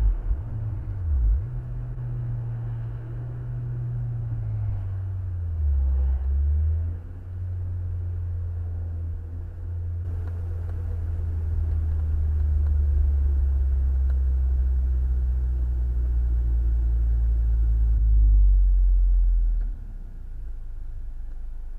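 Low, steady rumble of a car driving, engine and road noise together, shifting in pitch a few times and dropping away near the end.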